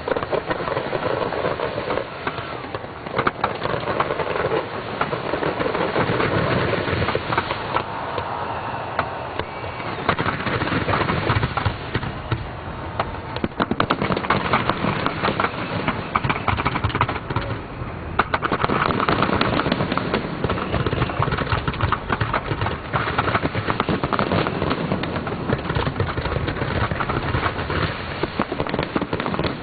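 Fireworks display going off: a continuous barrage of bangs and crackles from many shells bursting in quick succession.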